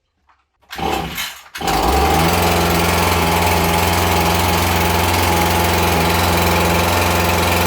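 Small two-stroke engine driving a homemade engine-powered fan: after a brief burst of noise it fires about a second and a half in and then runs loudly at a steady speed.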